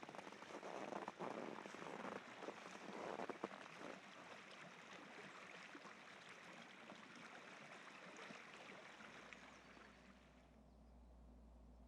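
Steady rush of river rapids, with irregular crunches in the first few seconds; it fades out about ten seconds in.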